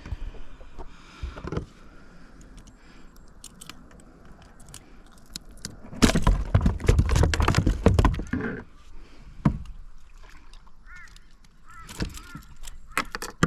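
Water splashing and knocks against a kayak hull as a just-landed fish is handled, with a loud stretch of about two seconds starting roughly six seconds in. A few short high chirps near the end.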